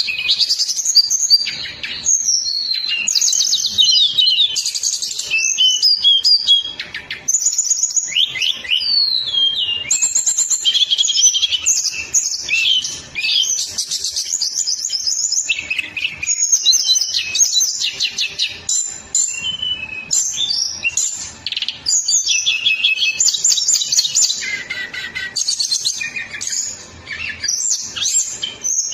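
A songbird singing a fast, dense, almost unbroken run of chirps and trills, the rapid 'speed rapat' style of song used as a tutor recording (masteran) to train caged songbirds. The song pauses briefly twice.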